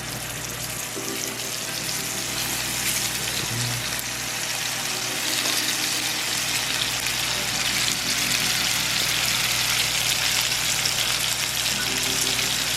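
Seasoned chicken frying in hot avocado oil in a pan. It sizzles steadily, growing louder over the first several seconds and then holding.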